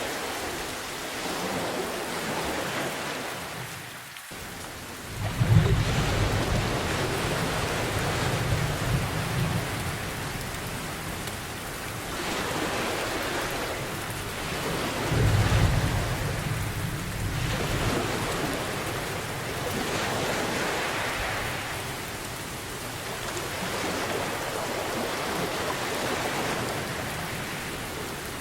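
Steady rain falling, with two low rolls of thunder, the first about five seconds in and the second about fifteen seconds in. The rain dips briefly just before the first rumble.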